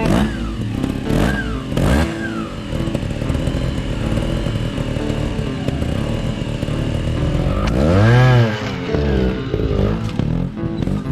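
Trials motorcycle engine blipped on the throttle three times in quick succession, then revved up and back down once about eight seconds in, the loudest moment.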